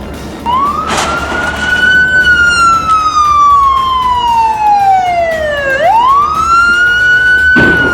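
Police car siren wailing. Its pitch climbs, slides slowly down for about four seconds, sweeps quickly back up and holds high again. Short bursts of noise come about a second in and again near the end.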